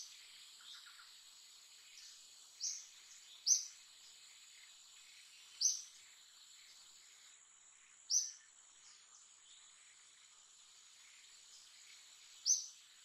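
Steady insect buzzing with a thin high whine, broken by five short, sharp, high-pitched bird chirps spaced one to four seconds apart.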